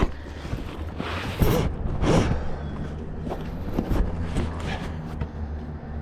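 Footsteps on a park walking trail, a few louder scuffs about a second and a half and two seconds in, over a low steady rumble.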